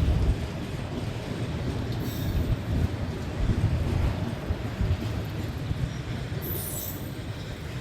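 Freight cars of a long CN train rolling past: a steady low rumble of wheels on rail, with brief high-pitched wheel squeals about two seconds in and again near the end, slowly fading.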